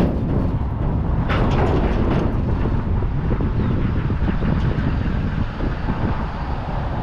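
A vehicle running with a steady low rumble, and a burst of rattling from about one to two and a half seconds in.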